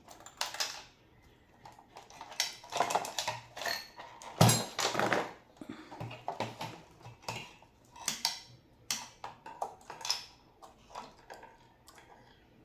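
Irregular small metallic clicks, taps and scrapes of hand tools working on impulse sealer parts, with one louder knock about halfway through.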